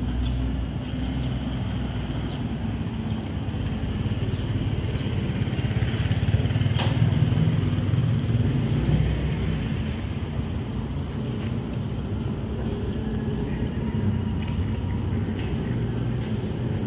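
Road traffic: motor vehicles running with a steady low rumble, one growing louder as it passes near the middle.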